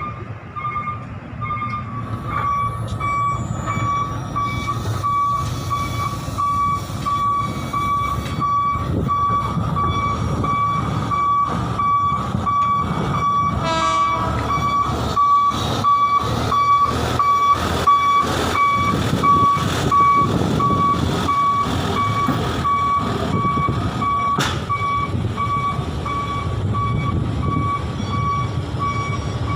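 A heavy vehicle's reversing alarm beeping in a steady, rapid string over a running engine. Sharp knocks and clanks come and go through the middle.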